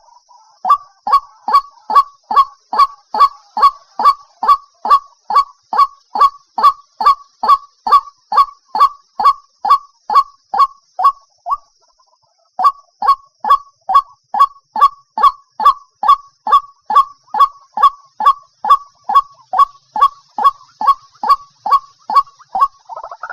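Recorded call of a white-breasted waterhen: a long run of short, loud 'kwak' notes repeated about twice a second, with a brief break about halfway through before the series resumes. It is a lure call meant for a trapping speaker.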